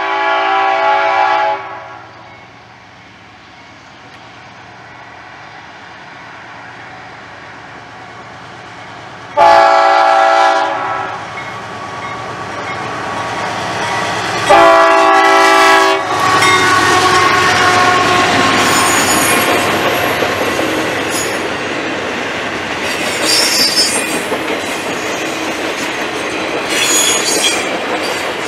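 Diesel locomotive air horn sounding three long blasts as the train approaches. Then the locomotive and a long train of Triple Crown RoadRailer trailers roll close by: a steady rumble with clickety-clack of wheels on rail joints and a few brief high wheel squeals.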